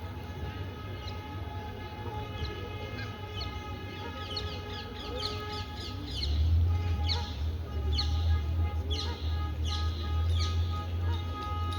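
Small birds calling in quick falling chirps, coming thicker and faster after a few seconds, over a low rumble that grows louder about halfway through.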